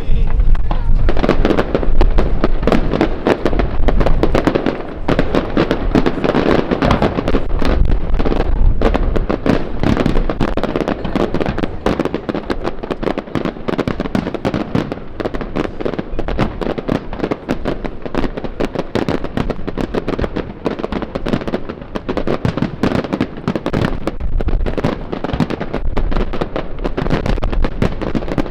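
Large fireworks display: a loud, dense barrage of shell bursts and crackle, with many overlapping bangs in quick succession.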